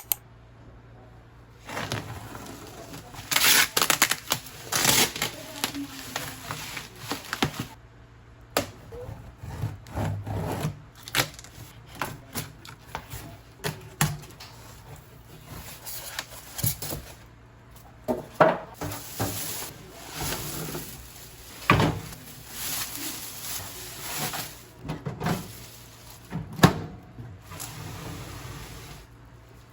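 Everyday handling sounds: irregular knocks and clicks of objects being picked up and set down, with stretches of rustling.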